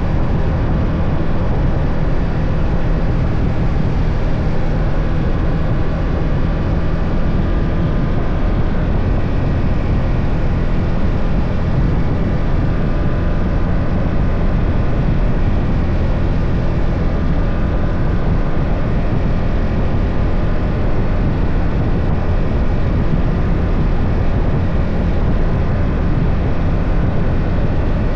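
BMW F 800 GS motorcycle's parallel-twin engine running steadily under way at an even pace, heard over road and wind noise.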